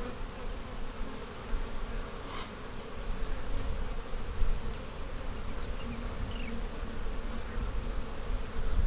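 A colony of honey bees buzzing around an opened hive, a steady hum, with a low rumble underneath.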